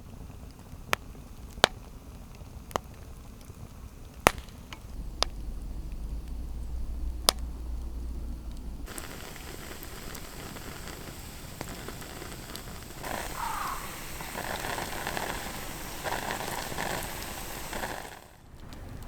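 Wood fire crackling with sharp, irregular pops, about eight in the first half. About halfway through it gives way abruptly to a steady hiss.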